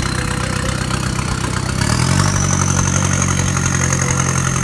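Off-road vehicle's engine running at a steady speed, picking up in pitch about two seconds in and then holding there, with a high whine that rises along with it.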